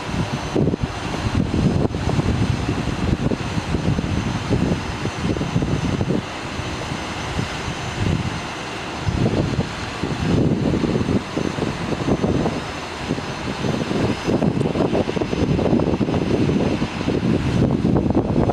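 Gusty wind buffeting the microphone: uneven swells of low rumbling noise that rise and fall every second or two.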